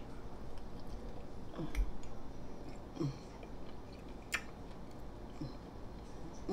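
A person chewing a mouthful of corned beef sandwich close to the microphone: soft, wet chewing and mouth sounds, with a couple of brief sharp clicks.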